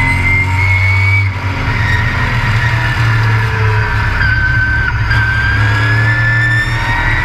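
Race truck's engine running hard at racing speed, heard on board: a loud low drone with a high whine that climbs in pitch, dips about a second in and again around four seconds in, then climbs again.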